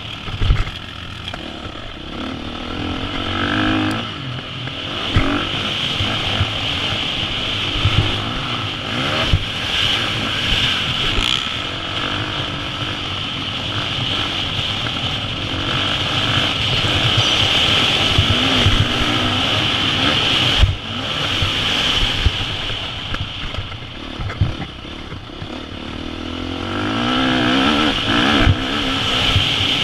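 2014 KTM 350 SX-F's single-cylinder four-stroke engine revving up and down through the gears as the dirt bike is ridden around a motocross track, with scattered thumps and knocks. The engine note rises and falls repeatedly.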